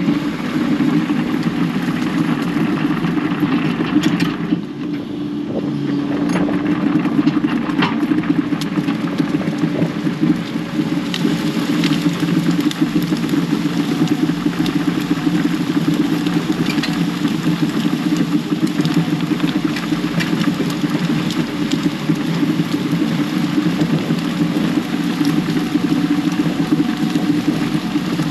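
Diesel engine of a heavy digging machine running steadily under working load, with scattered knocks and cracks of brush and rock being moved.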